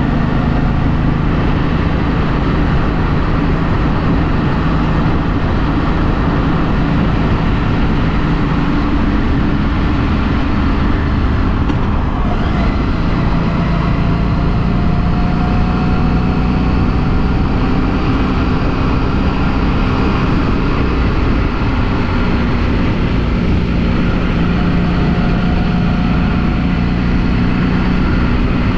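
2016 Harley-Davidson Street 500's V-twin running on its stock exhaust while riding, a steady engine note that the owner says sounds like a space ship. The note shifts about nine seconds in and settles again a few seconds later.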